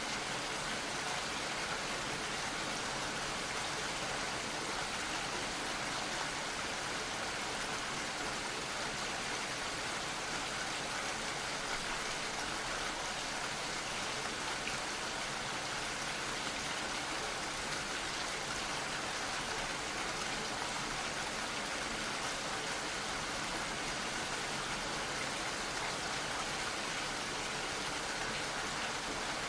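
Steady, gentle rain falling, an even patter with no breaks.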